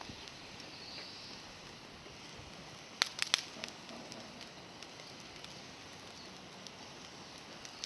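Campfire of climbing-rose twigs burning, with a quick cluster of sharp crackles and pops about three seconds in.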